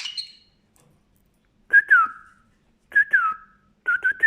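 A short chirp, then three whistled two-note phrases, each a short note followed by a pitch that falls away, with faint clicks just before each.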